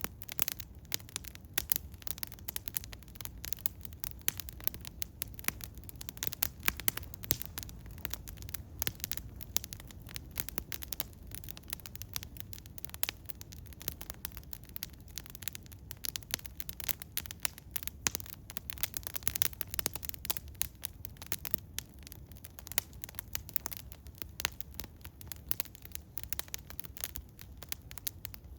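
An eastern hemlock wood fire crackling, with many irregular sharp snaps and pops throughout over a low steady rumble.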